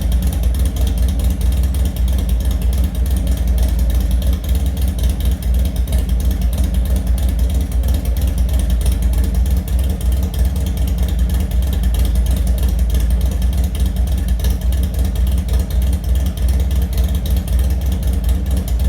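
Harley-Davidson Twin Cam 103 V-twin engine idling steadily through a D&D 2-into-1 Fat Cat exhaust.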